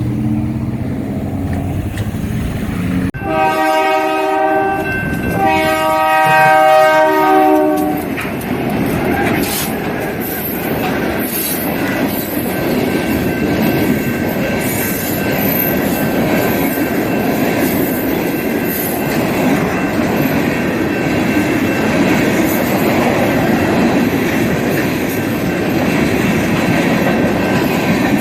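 Freight train's diesel locomotive horn sounding two long chord blasts about three seconds in, after the engine is heard passing. After that, a long string of freight cars rolls by, with steady wheel clatter over the rail joints and a faint steady wheel squeal.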